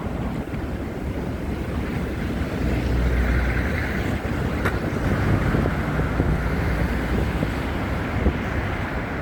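Wind buffeting a phone's microphone in a snowstorm, a steady low rumble that swells in gusts, with one sharp click about halfway through.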